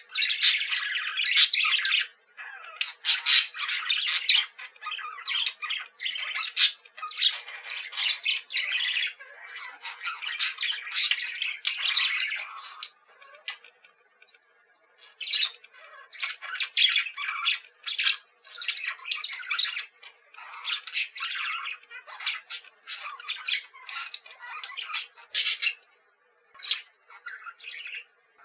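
Pet budgerigars chattering: a steady stream of scratchy warbles, chirps and squawks, with a short lull about halfway through.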